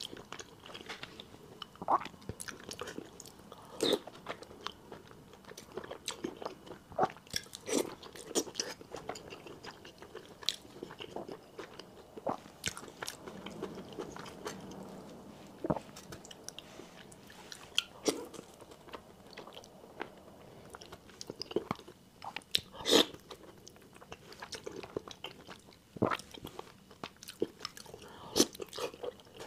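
Close-miked chewing of braised pork belly and rice: wet mouth sounds and smacks with sharp clicks scattered irregularly throughout.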